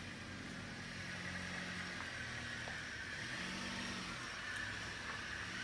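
Jeep Patriot's four-cylinder engine running at low revs as the SUV creeps forward through a turn, a low steady hum.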